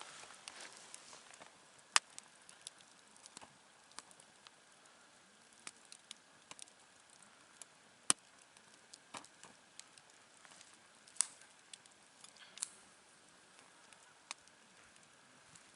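Wood campfire crackling: scattered sharp pops at irregular intervals over a faint steady hiss, the loudest about two, eight and eleven seconds in.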